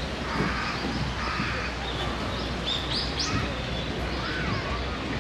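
Birds calling over a steady outdoor background, with a run of short rising chirps about three seconds in.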